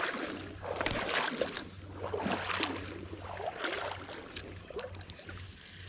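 Water swishing and sloshing in a run of repeated strokes, roughly one every half to three-quarters of a second, growing fainter toward the end, over a steady low hum.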